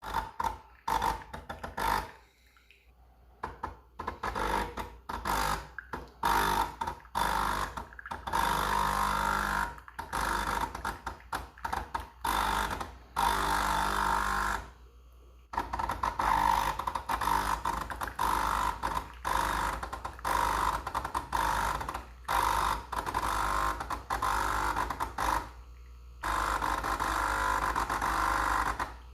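Nespresso Krups Inissia capsule coffee machine's pump buzzing. It starts and stops in rapid, irregular bursts, with a few longer stretches of continuous running. The machine is malfunctioning, going crazy.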